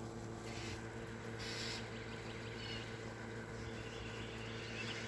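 Small birds chirping now and then in short calls over a steady low hum.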